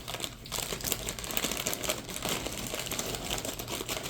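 Packaging crinkling and rustling as it is handled, a dense, steady crackle.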